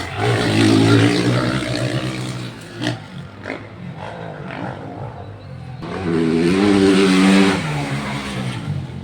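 Motocross dirt-bike engines revving past, loud at the start and fading, then a second bike swelling up about six seconds in and fading again.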